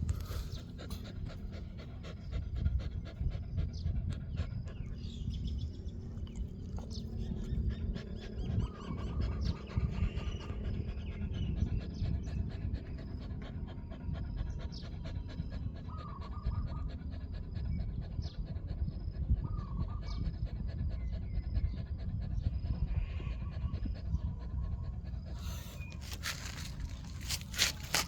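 A dog panting steadily close by, with a few short faint chirps in the background and a brief cluster of clicks near the end.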